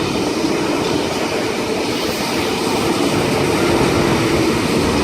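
Sydney Trains K set, an eight-car double-deck electric train, running through the station without stopping: a steady rumble and rush of wheels on rail that slowly grows louder.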